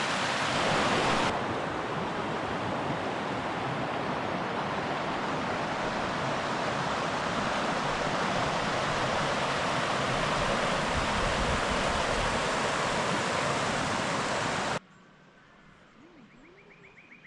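The Manning River flowing, a steady rushing of water. It cuts off suddenly near the end, leaving a quiet background with a few faint bird chirps.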